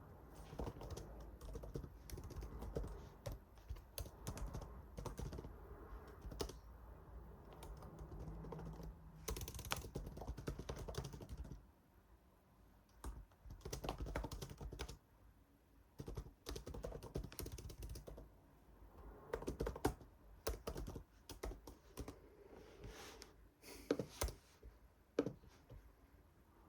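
Typing on a computer keyboard: irregular runs of key clicks, dense at first, then a short pause about halfway through and scattered keystrokes after it.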